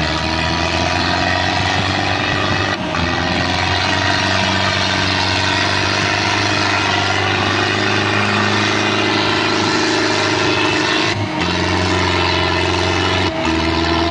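Massey Ferguson 385 tractor diesel engines running steadily at an even pitch, with short breaks in the sound about 3, 11 and 13 seconds in.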